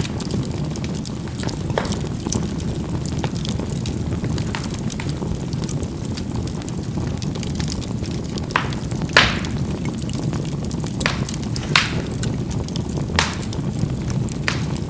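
Charcoal burning in a fireplace: a steady low rush of fire with sharp crackles and pops scattered through it, the loudest about nine seconds in.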